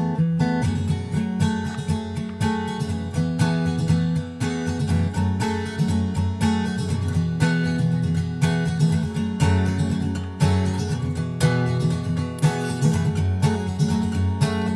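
Background music: an acoustic guitar arrangement, strummed and picked in a steady rhythm.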